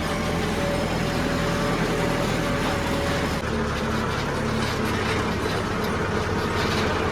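Heavy diesel engine running steadily, with a slight change in its note about three and a half seconds in.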